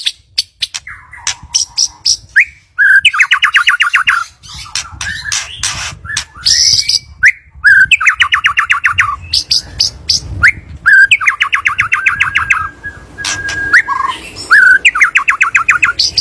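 White-rumped shama (murai batu) singing a varied song: several rapid rattling trills of about ten notes a second, between sharp whistled sweeps and loud clicking notes, with one thin held whistle about two-thirds of the way through.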